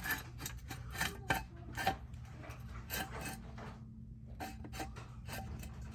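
Steel jack stand being set and adjusted under a truck's frame: irregular metal clicks, knocks and scraping.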